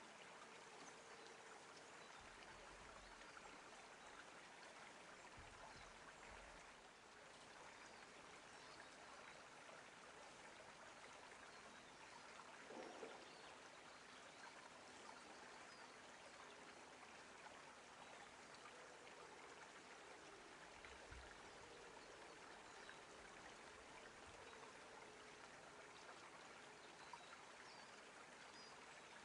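Faint, steady rush of running water, like a small stream, with one brief louder sound about 13 seconds in.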